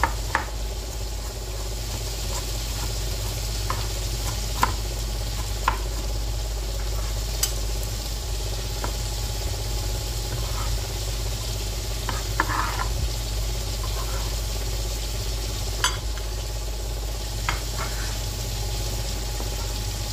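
Shrimp frying in oil, a steady sizzle, with scattered sharp taps of a knife on a plastic cutting board as shallots are sliced.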